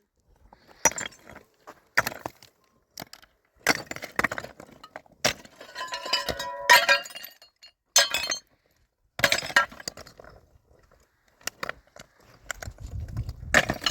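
Irregular sharp clinks and knocks of hard objects striking one another, about a dozen strikes spaced a second or so apart, a few around the middle ringing briefly. A low rumble comes in near the end.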